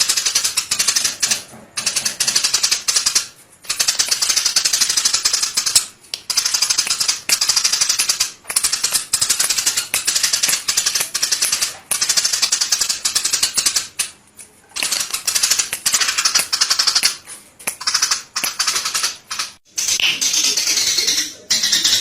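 Small songbird singing very fast, dry rattling trills in bursts of a few seconds, broken by short pauses; near the end the song turns to a more varied warbling phrase.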